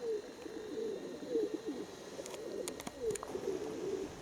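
Domestic pigeons cooing, several overlapping warbling coos one after another, with a few faint sharp clicks in the second half.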